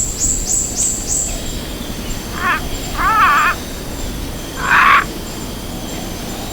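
Wild animal calls over a steady ambient hiss: a quick run of about five high, falling chirps, then three louder, lower calls. The middle call wavers up and down, and the last is the loudest.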